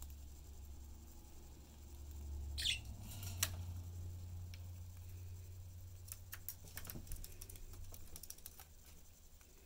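Budgies moving about their cage: a string of small clicks and taps, most of them bunched together late on, with one short high chirp about two and a half seconds in, over a low hum.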